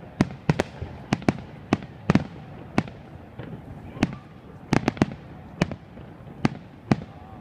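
Aerial fireworks bursting: an irregular run of sharp bangs, about two a second, some coming in quick clusters, each followed by a short echoing tail.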